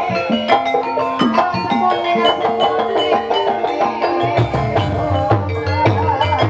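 Banyumas ebeg gamelan music: keyed percussion instruments playing quick struck notes over a drum beat, with a wavering melody line joining in about two-thirds of the way through.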